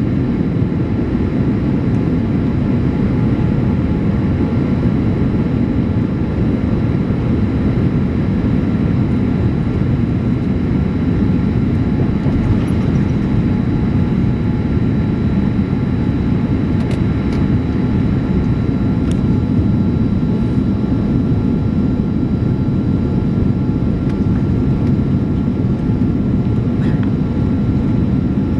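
Steady cabin noise inside a Boeing 787-8 Dreamliner airliner: a dense, even low rumble with faint steady tones above it, unchanging throughout.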